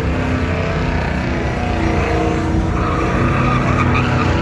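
Truck engine running loud and steady, with a higher whine joining about three seconds in.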